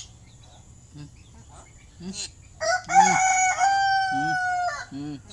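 A bird crowing: one rooster-style crow lasting about two seconds, held level and dipping slightly at the end, with a few short low calls around it.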